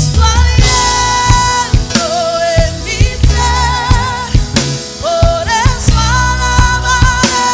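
Live worship band playing: a singer holding long notes over drum kit, bass and keys.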